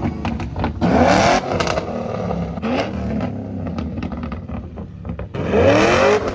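Car engine revved hard three times, its pitch climbing sharply on each rev and falling back to a rough idle in between, with a few short sharp cracks after the first rev. The biggest rev comes near the end.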